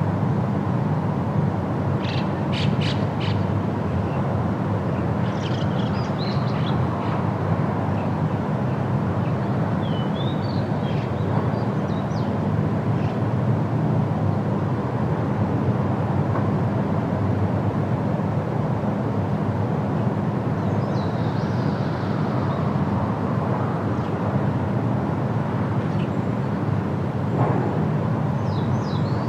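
Outdoor ambience: a steady low rumble, with small birds chirping and calling now and then.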